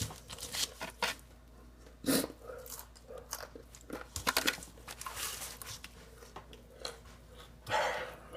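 A man biting into and chewing a cold burger stacked with bacon, in irregular mouthfuls with the loudest bite about two seconds in.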